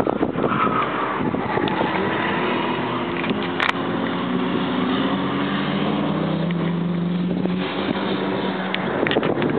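A competing car's engine is heard across the track, its note climbing as the car accelerates and easing after about seven and a half seconds. Wind buffets the microphone throughout.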